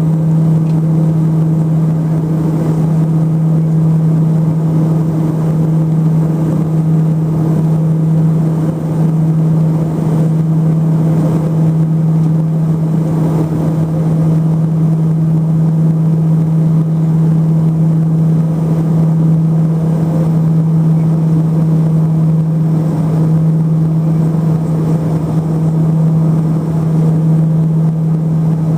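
The drone of a Let L-410 Turbolet's twin turboprop engines and propellers, heard from inside the cabin. It is a steady, unchanging low propeller hum over a wash of engine and airflow noise, with the power held constant.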